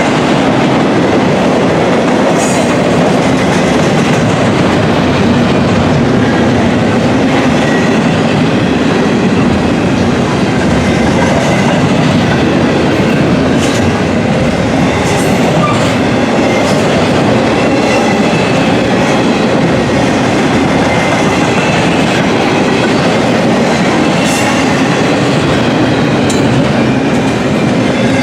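Intermodal container train rolling past at close range: a steady loud rumble and clatter of freight car wheels on the rails. A faint, thin high wheel squeal comes and goes.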